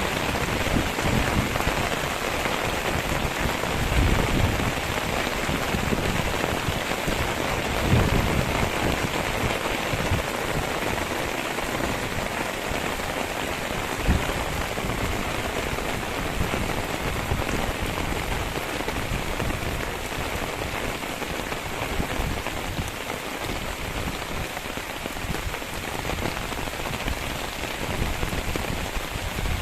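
Steady, dense hiss of water, with a few brief low thumps now and then.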